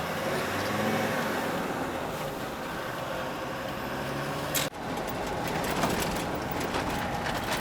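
An old Land Rover on the move: the engine runs steadily under a haze of road and wind noise. The sound drops out sharply for a moment about two-thirds of the way through, then carries on.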